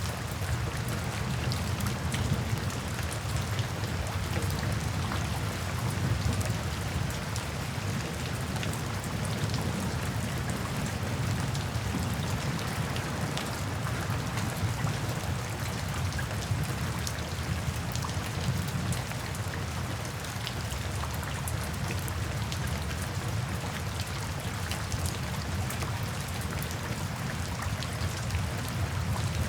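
Steady rain falling, with a constant low rumble beneath the hiss and scattered sharp drop ticks.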